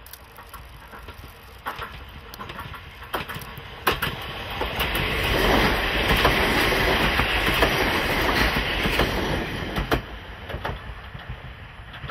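Nagano Electric Railway 2000-series electric train passing close by. Its wheels clack over the rail joints as it approaches and swell into a loud rush of wheels and running gear as the cars go past, about four to ten seconds in. The noise then fades as the train moves away, with a few more clacks near the end.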